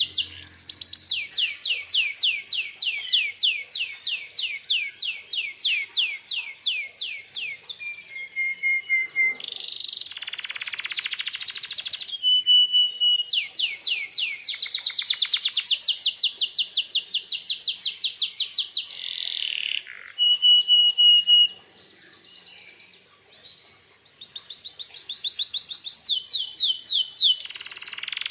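Domestic canary singing a long song: runs of rapid repeated trilled notes, sweeping rolls and short held whistles, with a brief quieter gap about two thirds of the way through.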